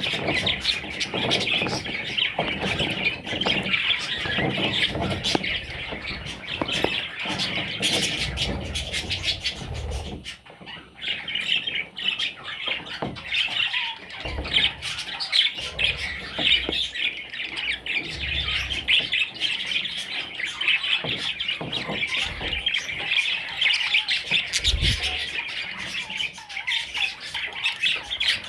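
A flock of budgerigars chirping and squawking, a dense unbroken chatter that dips briefly about ten seconds in. Occasional low thuds sound beneath it.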